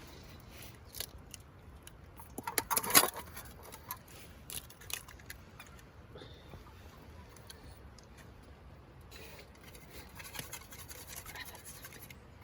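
Small metal objects clinking and rattling, with a loud burst of jangling about two to three seconds in and softer scraping and handling noises after.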